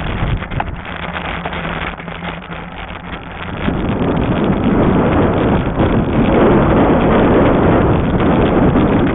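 Wind blowing across the microphone on a moving fat-tire e-bike, getting much louder about three and a half seconds in. A low steady hum sits under it before the wind rises.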